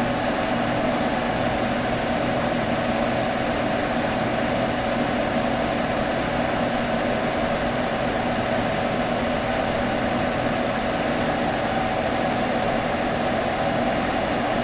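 Computer humming steadily: an even hiss of fan noise with a couple of steady mid-pitched tones, unchanging throughout.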